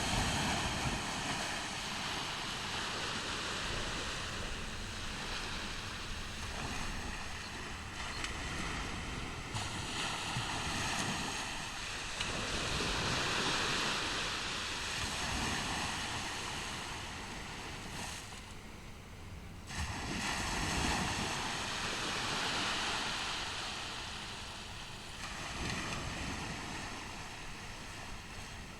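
Ocean surf breaking and washing up a beach, swelling and easing in slow surges several seconds apart, with a steady low rumble of wind on the microphone.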